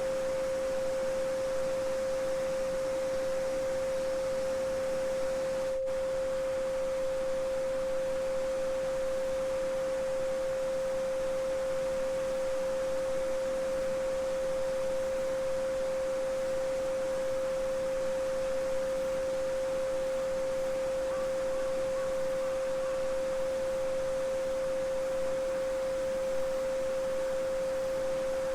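A steady 528 Hz sine tone held unchanging, over the even rushing babble of a small stream, with a momentary dip about six seconds in.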